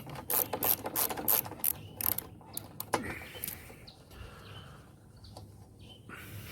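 Socket ratchet clicking, about three clicks a second for the first two seconds, as a spark plug is unscrewed from a lawnmower engine. A single sharper knock comes near three seconds in, then quieter handling.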